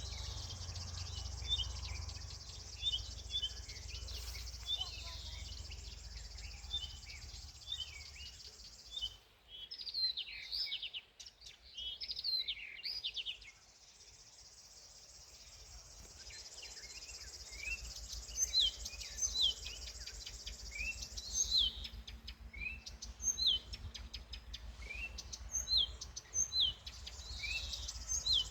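Wild songbirds chirping and singing in many short, high calls, with one bird repeating sharp falling notes from about two-thirds of the way in. A steady high buzz sits behind them, drops out about a third of the way through and returns later.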